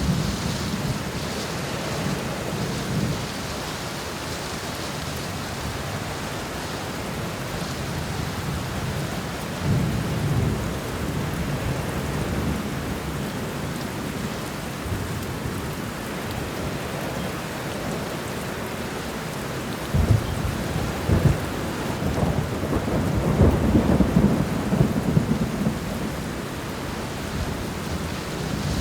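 Heavy rain falling steadily through a thunderstorm, with thunder rumbling several times. About two-thirds of the way in a sharper crack of thunder comes twice in quick succession, followed by a longer rolling rumble.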